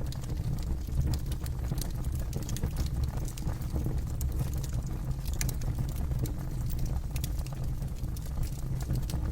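Campfire burning with a steady low rumble of flames and frequent sharp crackles and pops from the wood.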